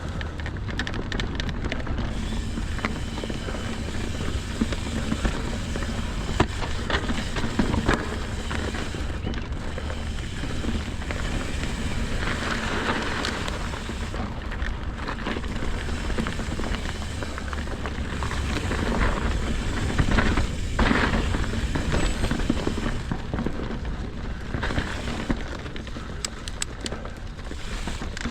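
Mountain bike riding over frozen trail, picked up by a GoPro's own microphone: wind buffeting the mic as a steady low rumble, with the tyres rolling and the bike rattling and knocking over bumps.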